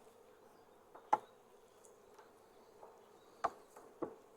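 Honeybees humming faintly and steadily around an open hive, with sharp knocks from handling the hive's frames: one about a second in and two more near the end.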